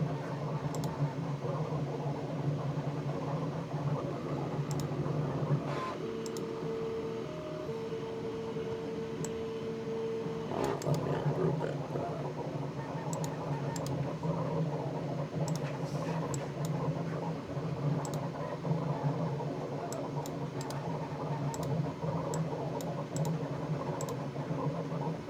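Steady low mechanical hum of running machinery, with scattered light clicks of a computer mouse. A faint steady tone joins in for a few seconds about a quarter of the way through.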